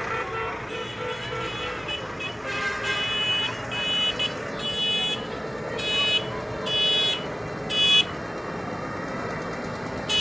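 Short, high-pitched horn blasts sounding again and again at uneven intervals, some brief and some held for about half a second, over a steady low engine rumble.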